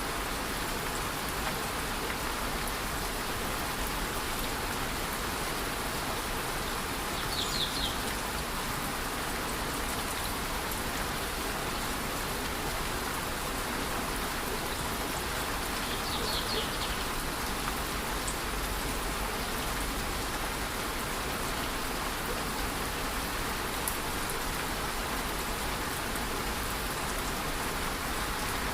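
A waterfall rushing steadily with light rain falling. A bird chirps briefly twice, about 7 and 16 seconds in.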